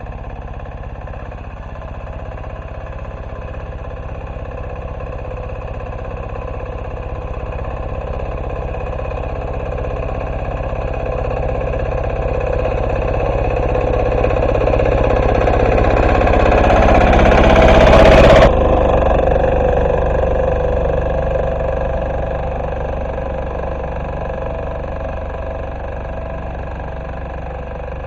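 Diesel engine of an MB2 walk-behind tractor running steadily while plowing. It grows louder as it comes closer, then fades as it moves away. A rising hiss over the engine cuts off suddenly about two-thirds of the way in.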